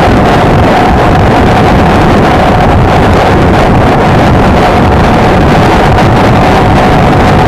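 Heavy wind noise on the microphone of a Honda XLR125R motorcycle riding at a steady speed. Under it, the single-cylinder engine runs with a steady drone.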